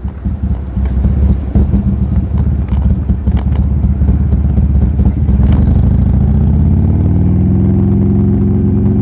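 Buell Lightning XB12S's 1203 cc 45-degree V-twin running through an aftermarket D&D exhaust on the move, getting louder about a second in. A few sharp clicks come through midway, and over the last few seconds the engine pitch rises steadily as the bike accelerates.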